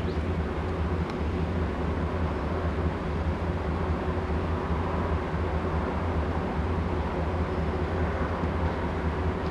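Moving passenger train heard from on board: a steady, continuous rumble with a faint constant hum.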